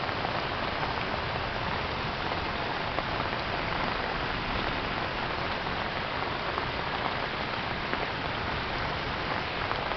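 Steady rain falling on a wet asphalt road, an even hiss with a few faint drop ticks.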